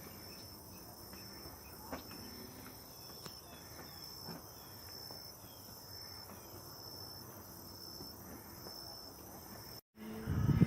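Insects chirping in a marsh: a high-pitched pulsing trill repeating at an even rhythm under quiet outdoor background. Just before the end the sound cuts out for a moment and a louder low thump follows.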